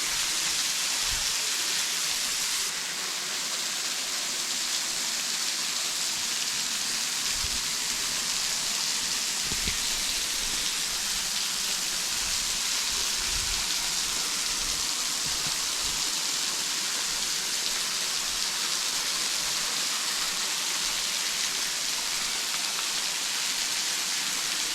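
Small waterfall running low, its thin flow of water spattering down in a steady, even hiss.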